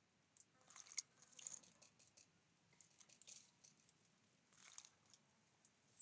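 Faint crunching and tapping of small birds pecking at and cracking seeds on a feeder, coming in a few irregular clusters.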